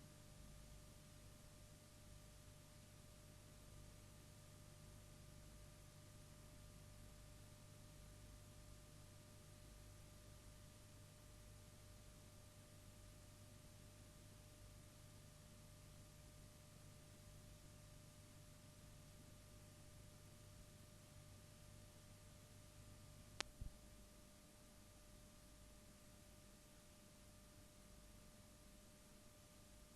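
Near silence with a faint steady hum, broken by two sharp clicks close together about three-quarters of the way through.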